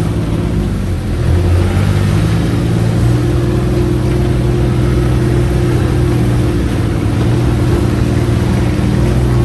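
UTV engine running while the vehicle drives along. It picks up revs about a second and a half in, then holds a steady drone.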